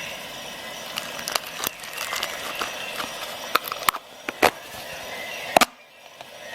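Swiss Army knife being handled: a series of sharp clicks as its tools are worked, with a loud double snap near the end, over a steady background hiss.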